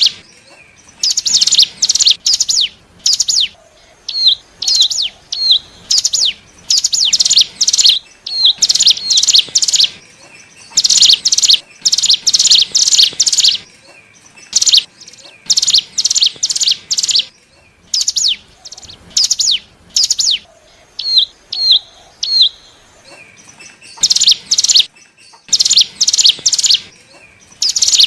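Ciblek gunung (cigun), a mountain prinia, singing in repeated bursts of rapid, high, sharp notes, each burst lasting a second or two with short pauses between, plus a few separate hooked calls. This is the song used as a lure call to draw in wild cigun.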